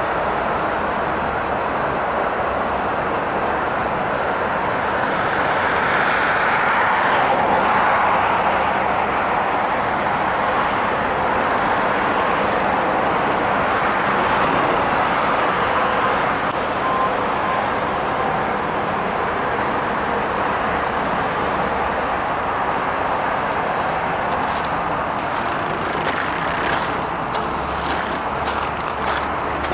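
Steady road and tyre noise of a car driving, swelling slightly about a quarter of the way in.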